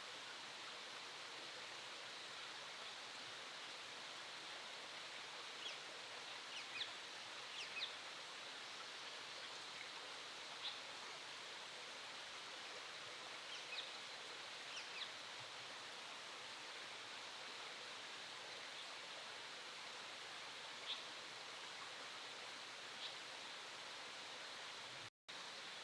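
Short, high bird chirps, singly and in small clusters, over a steady rushing background hiss. The sound cuts out for an instant near the end.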